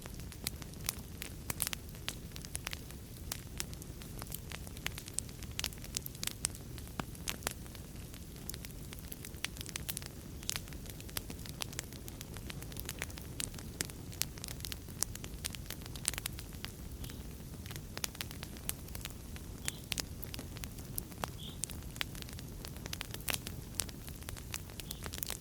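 Wood fire in a fireplace crackling steadily: frequent sharp irregular pops and snaps over a low, even rumble of burning.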